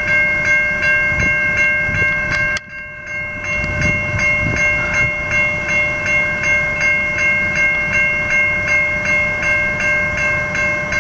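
Safetran Type 3 electronic level-crossing bell ringing close up: a steady, rapid run of bright metallic strikes, about two to three a second, sounding because the crossing is activated for an approaching train. A low rumble runs underneath, and the ringing dips briefly about two and a half seconds in.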